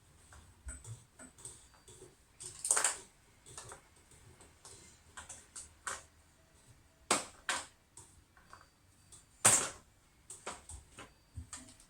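Irregular clicks, taps and knocks of plastic washing-machine hoses and fittings being handled and fitted by hand, with a louder knock about two thirds of the way through.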